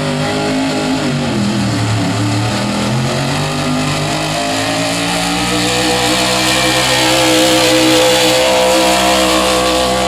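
Pulling vehicle's engine working hard under load as it drags the weighted pulling sled down the track. Its pitch sags about a second in, then climbs back and holds steady, getting louder toward the end.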